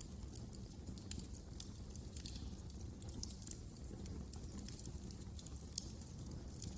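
Wood fire crackling: frequent, irregular small sharp pops and snaps over a low, steady rumble of burning logs.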